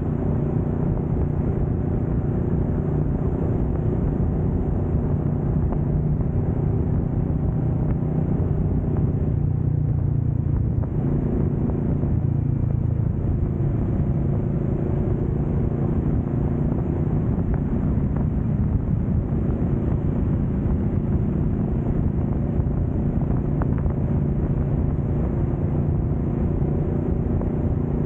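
2025 Kawasaki Vulcan S 650's parallel-twin engine running steadily while riding on an expressway. The engine note changes briefly about ten seconds in, then settles into a steady pitch again.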